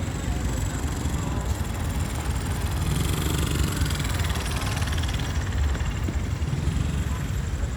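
Tour boat's engine running steadily, a constant low rumble.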